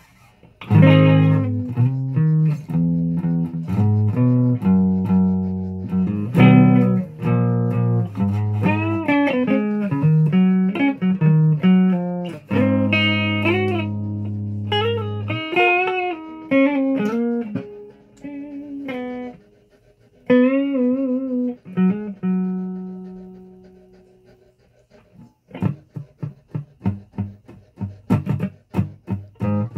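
A plucked string instrument played: single notes and chords ringing out and dying away. Near the end comes a pause, then a run of short, choppy strokes.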